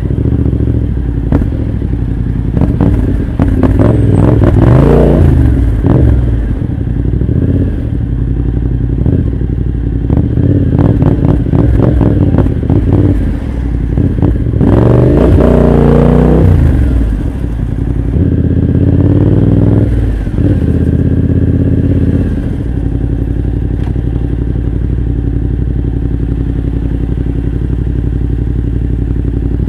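Motorcycle engine running through an aftermarket full exhaust system, idling and revved up and down several times in short blips, the biggest about halfway through. It then settles to a steady idle for the last third.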